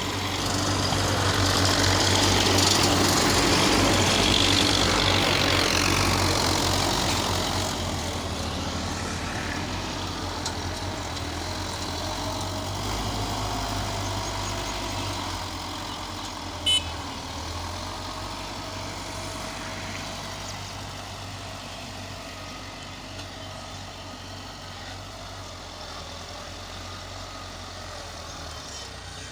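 Belarus tractor's diesel engine running under load. It is loudest over the first several seconds, then gradually fades. A single brief sharp sound comes about two-thirds of the way through.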